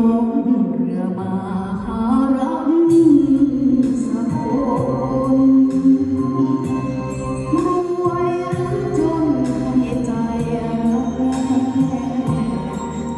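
A male singer singing a Thai luk thung song over an instrumental backing track with steady percussion, the melody gliding and bending between held notes.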